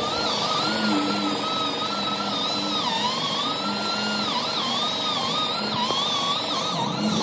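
A power tool's motor whining at high speed, its pitch dipping and recovering again and again as it bears on the work, typical of a grinder or sander taking off metal.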